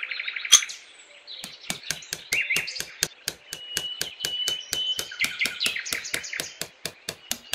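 A small hammer tapping thin yellow rods down into sand: one sharp tap, then from about a second and a half in a quick, even run of light taps, about five a second. Birds chirp and whistle throughout.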